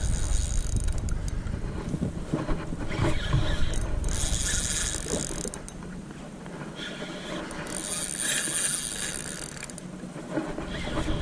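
Fishing reel mechanism clicking and whirring in several separate bursts, over a low rumble.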